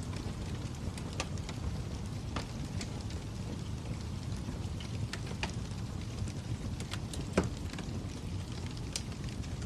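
Fire crackling: a steady low rumble with scattered, irregular sharp pops, the loudest about seven seconds in.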